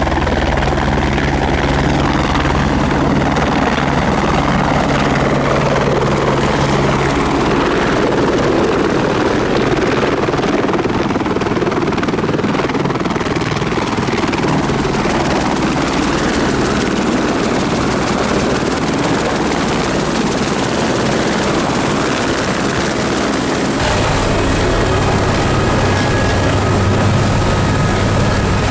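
Helicopter in flight, its rotor and turbine running loud and steady. The low rotor hum drops away about a quarter of the way in and comes back strongly near the end, with a thin high turbine whine joining partway through.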